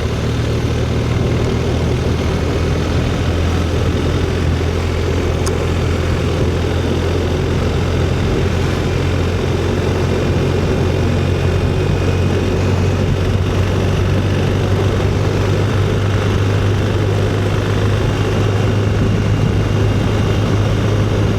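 Motorcycle engine running at a steady cruise, a constant low drone with wind and road noise on an onboard microphone.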